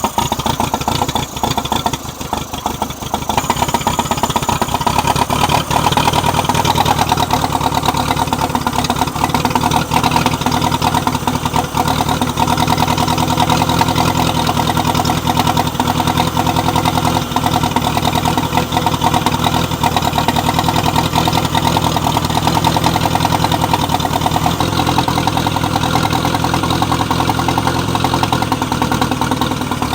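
Carbureted gas engine of an old John Deere 1010 tractor running steadily just after starting, choke out at part throttle, with a brief sag about two seconds in. The owner suspects an air leak.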